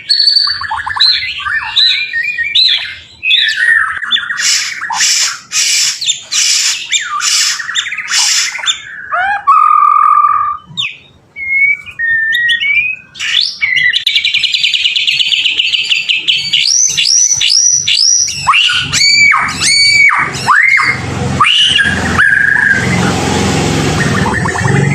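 White-rumped shama (murai batu) singing a long, varied song: fast chattering phrases, a clear held whistle, a rapid trill, then a run of quick downward-sweeping whistled notes and a harsh rattling phrase near the end.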